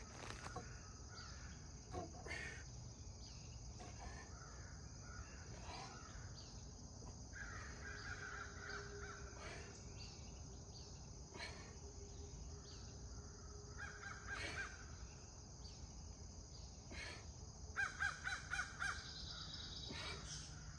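Birds calling in short repeated calls several times, with a quick run of loud calls near the end, over a steady high-pitched insect buzz.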